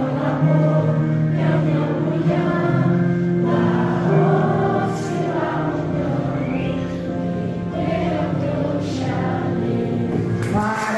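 A choir singing, several voices holding long notes together that change from chord to chord.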